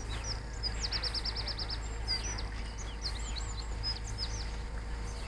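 Small birds singing: scattered high chirps and whistles, with a rapid trill of about ten notes about a second in, over a steady low rumble.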